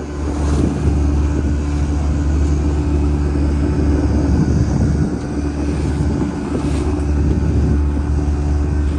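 An engine running steadily, a continuous low hum with a few steady tones above it.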